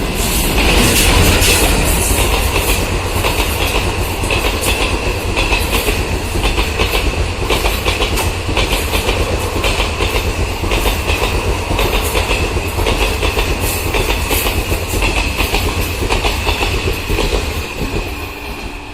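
Train wagons rolling past, wheels clattering over the rail joints in a clickety-clack with a steady high ringing from wheel and rail, over a low rumble; the sound fades near the end.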